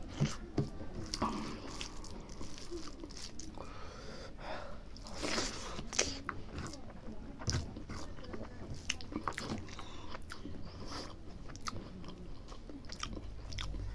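Close-up chewing of a mouthful of rice and mithun skin curry, with wet smacks and many short irregular mouth clicks.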